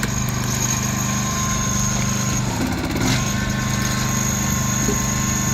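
Small engine running steadily at an unchanging speed, driving a hydraulic firewood splitter, with a brief knock about three seconds in.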